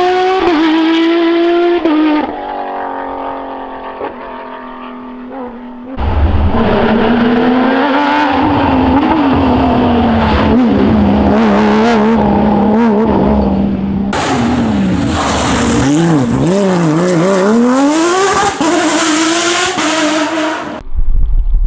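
Porsche rally cars driven hard, their engine notes climbing and dropping through gear changes and lifts, in several short clips cut together. Near the end one engine note swings quickly up and down before climbing steadily.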